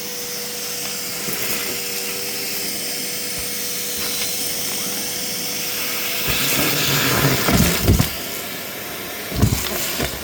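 Vacuum cleaner running with a steady whine that drops away about six seconds in, after which louder uneven rumbles and thumps join the airflow noise.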